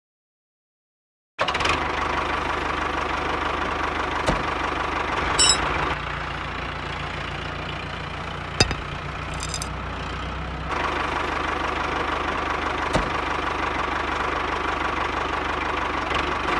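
A motor starts running about a second and a half in and keeps running steadily with a constant whine and hum, with a few sharp clicks along the way.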